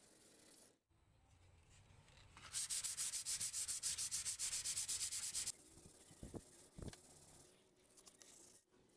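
Hand sanding of a car panel: rapid, evenly repeated sandpaper strokes, about eight a second, lasting some three seconds. Two short knocks follow.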